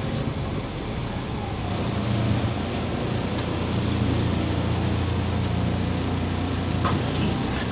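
Interior sound of a MAZ 203.065 city bus underway: the diesel engine and running noise as a steady low hum, growing louder about two seconds in.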